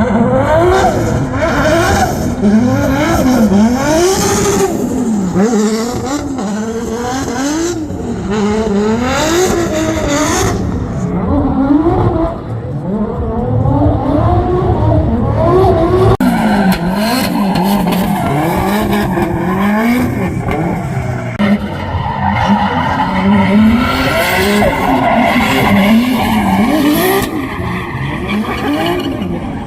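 Drift car engine revving hard and falling back again and again as the throttle is worked through a slide, with tyres screeching.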